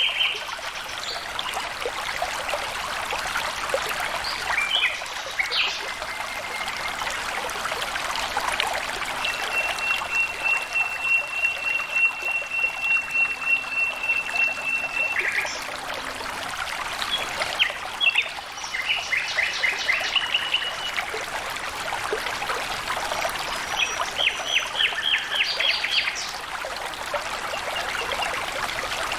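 Water trickling and splashing steadily, with birds calling over it. Near the middle one bird holds a long, steady high whistle for several seconds, and later come quick runs of rapidly repeated notes.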